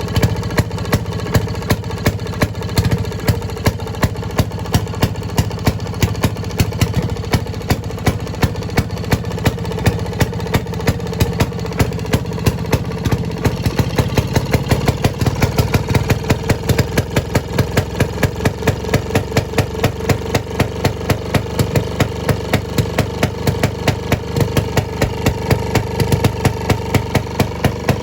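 Fairmont RO-C two-stroke single-cylinder engine running slowly, each firing a distinct exhaust pop at a few per second with uneven spacing. The pops come closer together for a few seconds around the middle, then settle back.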